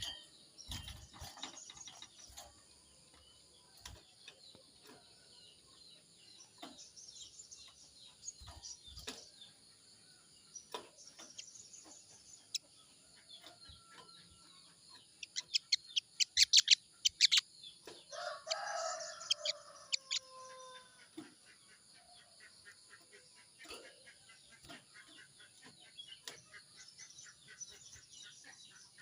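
Morning birdsong: small birds chirp on and off over a steady high drone. A quick clatter that sounds like wing flaps comes about sixteen seconds in, and a rooster crows right after it.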